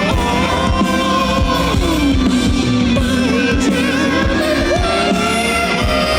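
Live rock band playing loud, with steady drum hits and long sustained notes that slide up and down in pitch.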